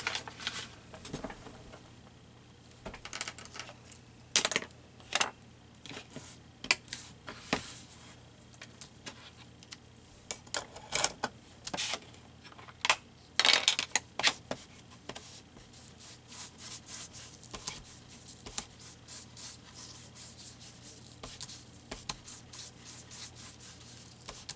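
Ink blending brush rubbed and dabbed around the edges of paper: a run of short, scratchy brushing strokes that become quicker and more regular in the second half.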